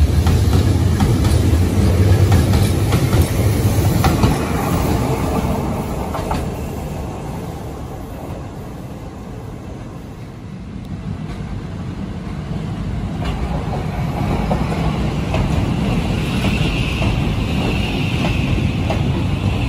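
Electric commuter trains: a departing train's wheels clatter over rail joints as it pulls away and fades, then an arriving Shin-Keisei train grows louder, with a high steady whine over its rumble for the last few seconds as it comes into the platform.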